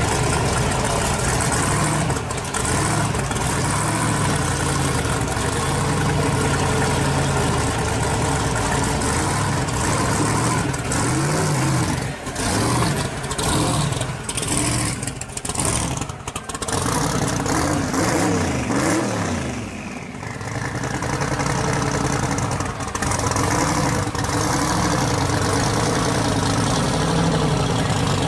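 Twin-turbocharged 1955 Chevy pro street car's engine running loudly at idle, with several brief revs in the middle where the pitch rises and falls before it settles back to a steady idle.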